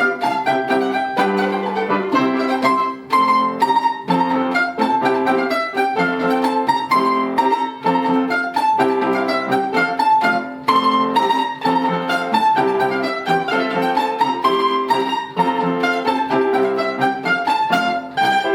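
Instrumental Ukrainian folk music on plucked strings of the mandolin kind, playing quick, evenly picked notes in a lively dance rhythm.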